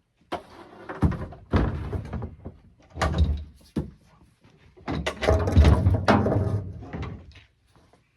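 A series of heavy knocks and thuds, then a longer stretch of loud handling noise about five seconds in.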